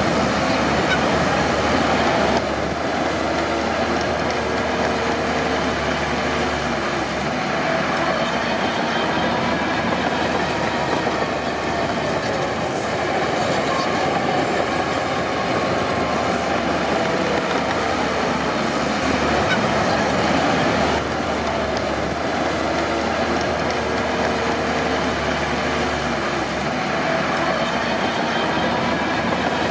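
Crawler bulldozer working: its diesel engine running steadily under the clatter and squeal of steel tracks.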